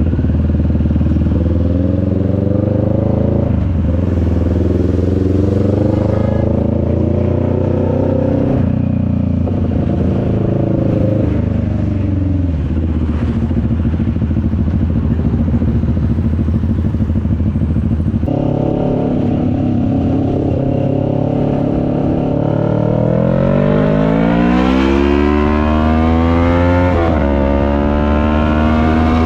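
CFMoto 400NK's parallel-twin engine pulling through the gears while riding. Its pitch climbs and drops back at several upshifts in the first dozen seconds, holds steady while cruising, then climbs hard under acceleration with another shift near the end.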